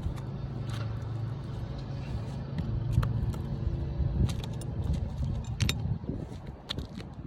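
A steady low engine hum dies away about four and a half seconds in. Scattered sharp clicks and knocks come from hand work on the asphalt roof shingles.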